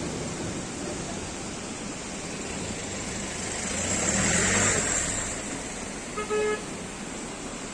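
Steady rushing noise, with a vehicle passing in a rise and fall of sound about four to five seconds in, then a short car horn toot about six seconds in.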